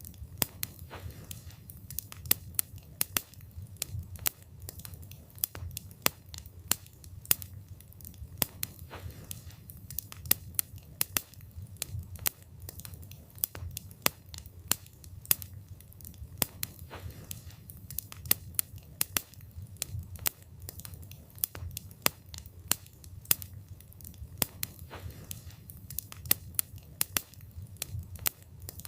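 Wood fire burning, with frequent sharp pops and crackles from the burning wood over a low steady rumble of the flames.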